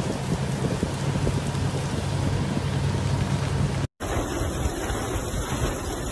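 Storm: rain and strong wind making a steady rushing noise, with wind buffeting the microphone. The sound cuts out for a split second about four seconds in and resumes with a different tone.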